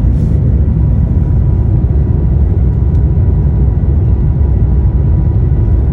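Steady low rumble and rush of a high-speed train running at about 300 km/h, heard from inside the passenger car.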